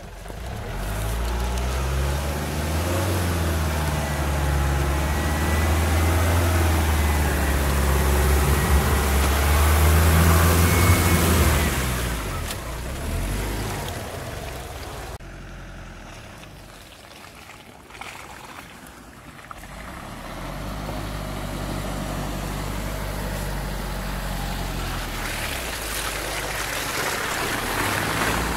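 Mitsubishi Delica van driving over rough ground, its engine running and changing pitch. It grows quieter for a few seconds past the middle, then comes back up.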